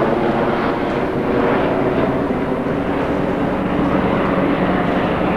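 Rally car engine idling steadily with an even drone.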